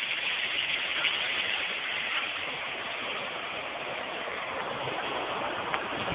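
Steady rushing of water, an even hiss that holds at one level without a break.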